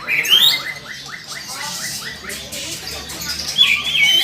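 Cucak ijo (green leafbirds) singing: quick rising whistles and chattering phrases, with a run of fast repeated notes in the first couple of seconds and louder high notes near the end.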